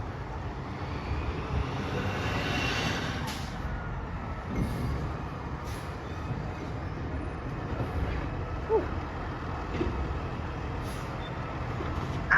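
Garbage truck running, with a steady low engine rumble and a whine that rises and falls about two seconds in as its hydraulics work.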